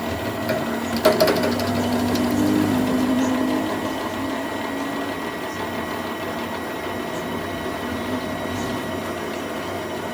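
A machine tool running steadily while cutting steel, with a cluster of sharp metallic clicks about a second in.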